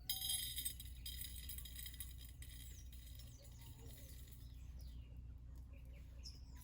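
Faint high bird chirps, a bright trill in the first second and then scattered short falling calls, over a steady low hum.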